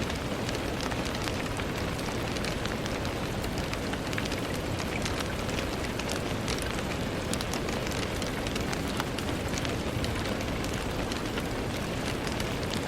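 Steady rain falling on a window pane: a constant hiss with many small, sharp drop taps scattered throughout.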